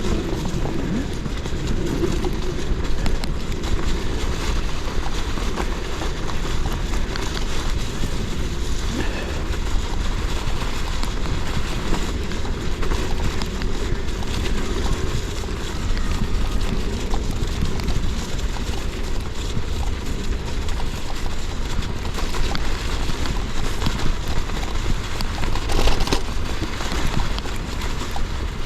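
A Rose Backroad AL gravel bike's tyres rolling over a snowy, icy path, with wind rumble on the action camera's microphone. A brief sharp knock near the end, like the bike jolting over a bump.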